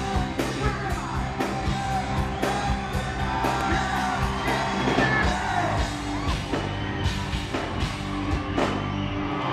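Live hard rock band playing with a male singer's voice over drums, bass and guitar, recorded from the audience with poor, distorted sound.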